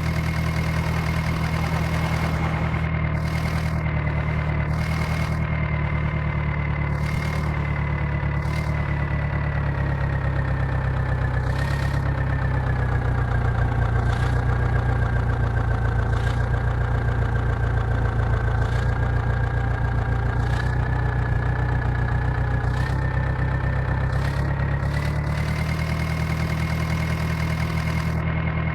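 Heavy diesel engine of a backhoe loader or tractor running steadily. Its pitch sags for about a dozen seconds in the middle, as under load, then rises back. Light, scattered clicks sound over it.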